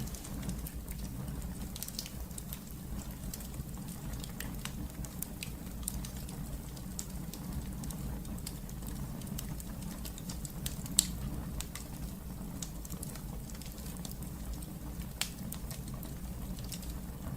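Wood fire burning in a fireplace: a steady low rumble with scattered crackles and pops, one sharper pop about eleven seconds in.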